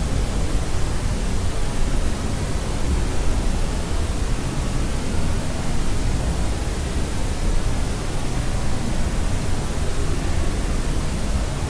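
Steady sleep-aid white noise: a constant, unchanging hiss with its weight toward the low end, like pink noise.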